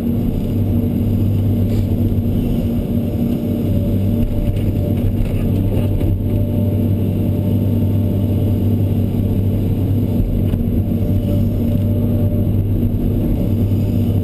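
Diesel engine of a hydraulic excavator running steadily, a loud, even low hum.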